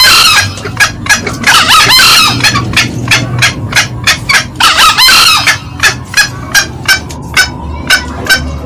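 Green junglefowl calling: three short, hoarse crows from the male (at the start, about two seconds in and about five seconds in) over a rapid run of sharp cackling notes from the hen, several a second.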